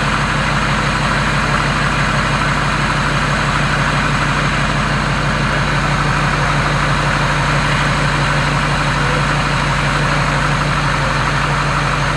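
Ford Powerstroke V8 turbo-diesel in an F-250 idling steadily, shortly after its first start since a rebuild. One low steady tone in the sound drops out about halfway through.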